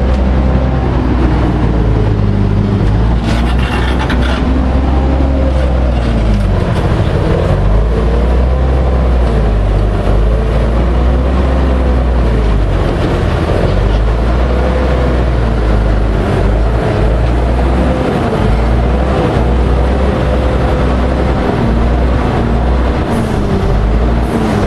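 MAN 32.281 tipper truck's diesel engine running under way, its pitch rising and falling repeatedly as the revs change.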